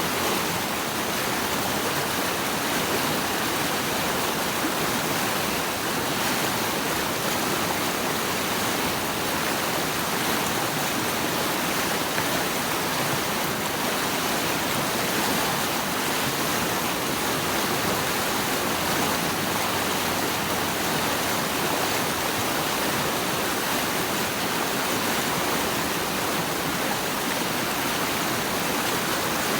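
Running water rushing steadily, an even hiss with no change in level.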